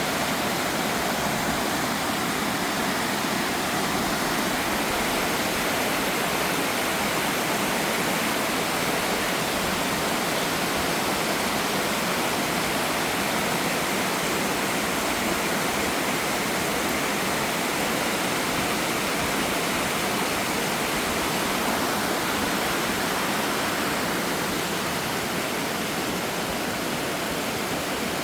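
Steady rush of fast-flowing water from a waterfall and the creek below it, running too quickly to cross.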